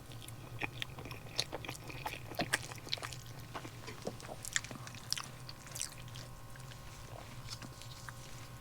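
Someone eating at close range: many small clicks, crunches and scrapes, like chewing and cutlery, over a steady low hum.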